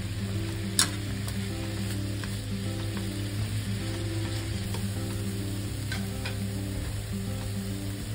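Julienned burdock root and carrot sizzling in a frying pan as they are stir-fried with chopsticks. The chopsticks click against the pan now and then, sharpest about a second in.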